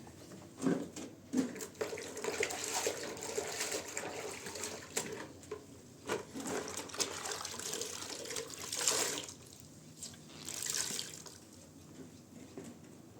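Water running and splashing, with scattered knocks and clicks, and two louder surges of splashing in the last few seconds.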